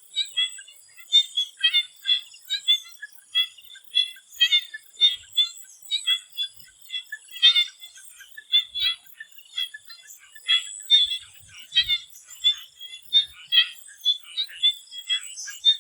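Swamp frogs calling in a chorus: short, high-pitched calls repeated several times a second and overlapping unevenly, over a thin steady high whine.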